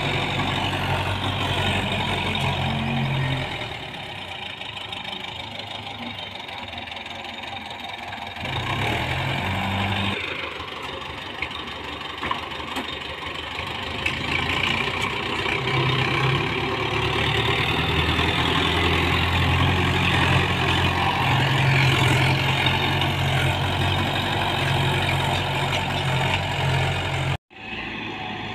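Tractor engine running, easing to a lower idle at about three and a half seconds and again at about ten, then speeding up and holding higher from about fifteen seconds in. It cuts off abruptly near the end.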